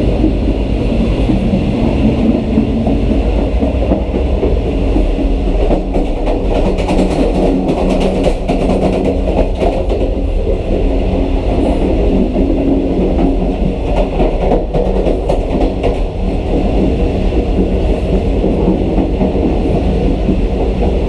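Pakistan Railways Green Line Express passenger train running on the line: a loud, steady rumble of wheels on the track with rattling and clacking, the sharp clacks thickest from about six to ten seconds in.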